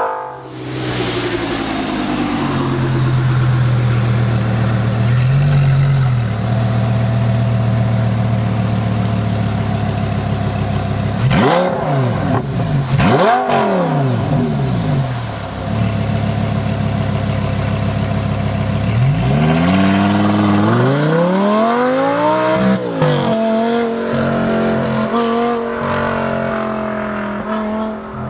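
Audi R8's 5.2 FSI V10 engine, exhaled through a valved Armytrix F1 exhaust, running at a steady low note, blipped twice in quick succession about midway, then revved in a longer climb that falls back, before settling to a steady run again.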